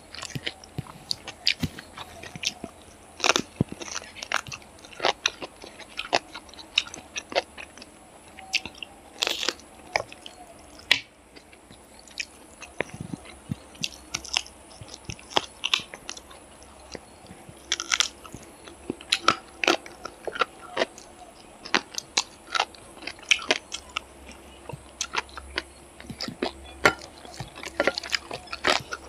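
Close-up chewing and biting of a person eating chicken fried rice with chicken curry by hand: many short, irregular mouth clicks.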